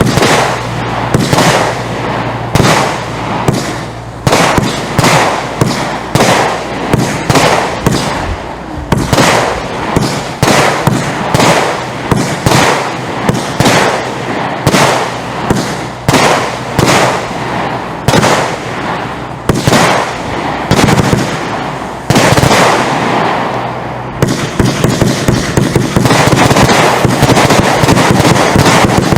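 Platinum Fireworks 'Triple Party' firework going off: a long run of loud bangs, about one or two a second, followed near the end by dense, continuous crackling.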